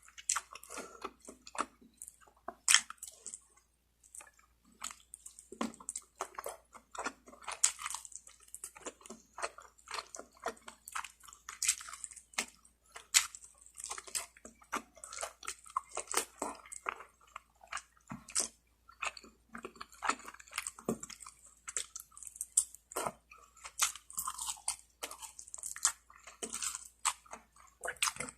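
Close-miked eating of roast chicken: irregular wet chewing and biting, with crisp skin crunching in short, uneven clicks and crackles.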